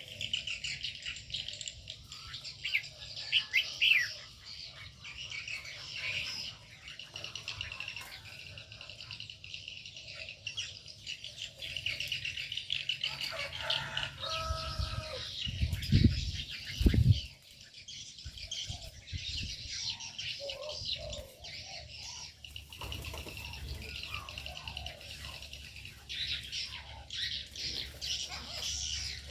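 Many aviary birds chirping and calling together in a continuous dense chatter, with wings flapping. About halfway through come two loud dull thumps a second apart.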